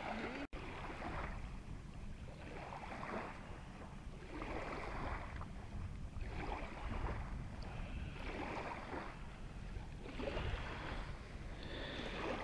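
Water sloshing and lapping in a slow, uneven rhythm, about one soft swell every second or so.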